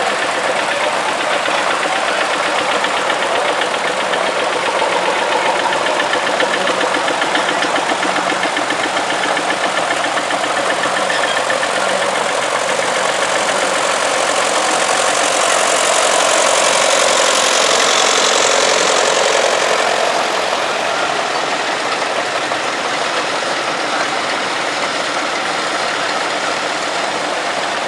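Several vintage tractor engines running steadily as they drive past in procession. They grow louder for a few seconds past the middle, as one passes close, then settle back.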